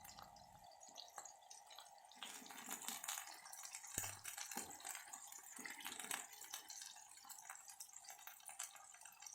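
Faint crackling and sizzling of food shallow-frying in hot oil, made of many small irregular pops, with one sharper click about four seconds in.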